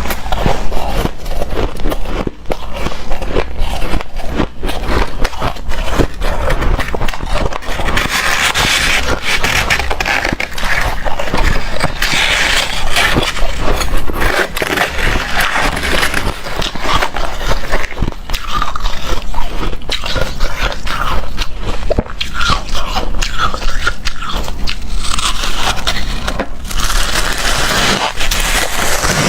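Hard, frosty shaved ice crunching and crackling as it is bitten and chewed, mixed with scraping as it is scooped.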